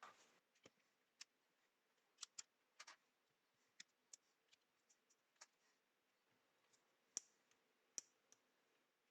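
Faint, irregular clicks and taps of small plastic and metal parts being handled while a cordless screwdriver is worked on, starting with a brief scrape. The sharpest clicks come near the end.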